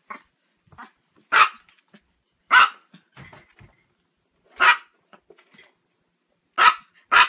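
Small Chihuahua barking: five short, sharp, high barks a second or two apart, the last two in quick succession.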